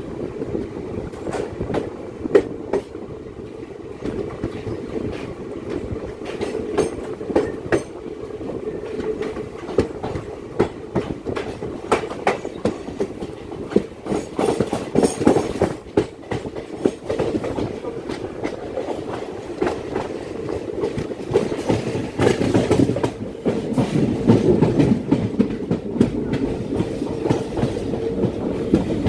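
Passenger train coach running on the track as it pulls out of a station and gathers speed: a steady rumble with wheels clattering in many sharp clicks, growing louder toward the end.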